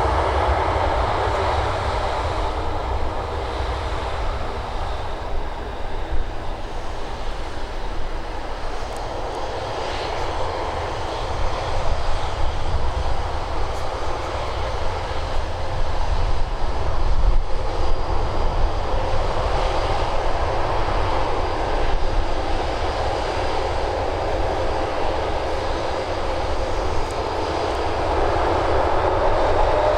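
Boeing 737-800's CFM56-7B jet engines running as a steady jet roar over a deep rumble. It grows louder around the middle and then eases a little.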